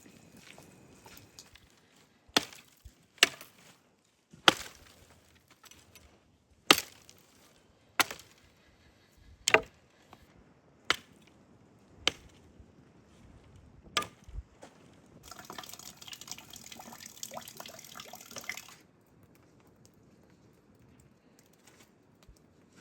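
Repeated sharp chopping strikes, about ten, roughly one every second and a half, followed by about three seconds of dense crackling.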